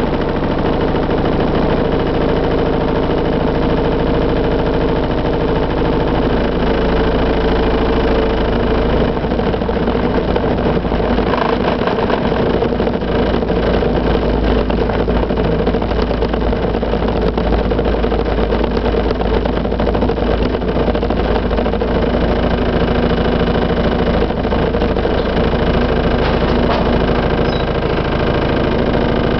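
Constant hum and deep rumble of heavy construction machinery working the road, its engine note holding steady.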